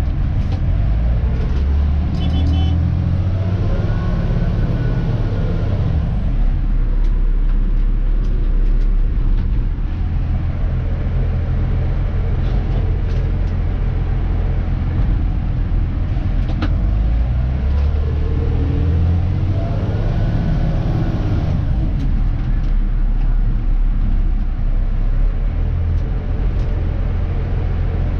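Dennis Elite 2 garbage truck's diesel engine running, heard from inside the cab, with a steady low rumble. Twice the engine note rises, holds and falls away again.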